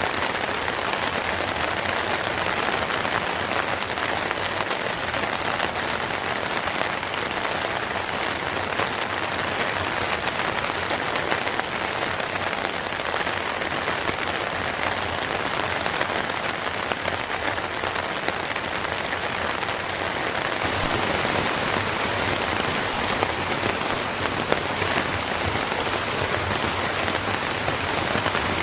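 Steady rain falling, an even hiss of drops, a little louder from about two-thirds of the way through.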